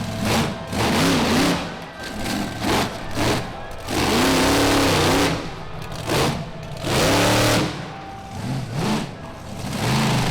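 Monster truck engine revving hard in repeated throttle bursts, its pitch rising and falling several times, as the truck drives a freestyle run.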